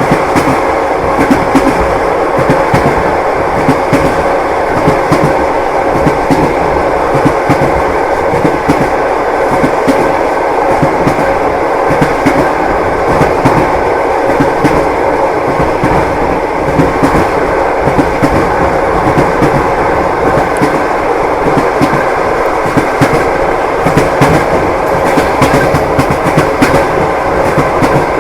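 Passenger train running on the rails: a steady rolling rumble with repeated wheel clacks over the rail joints and a steady hum underneath.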